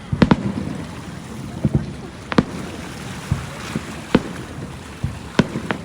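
Fireworks shells bursting in a string of sharp bangs at uneven intervals: a quick double bang at the start, then single ones roughly every one to two seconds. Wind and surf hiss steadily underneath.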